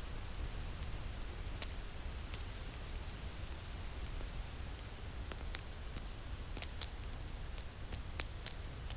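Crackling fire with irregular sharp pops and snaps, more of them in the last few seconds, over a steady low rumble of winter wind.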